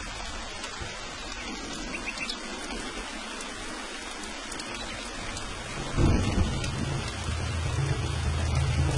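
Steady rain falling, with a roll of thunder breaking in about six seconds in and rumbling on to the end.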